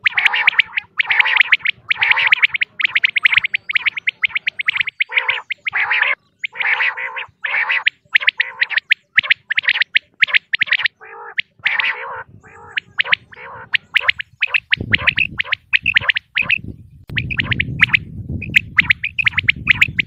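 Female common quail calling: fast runs of short, sharp chirping notes with brief pauses between runs. A low rumble sits underneath during the last five seconds.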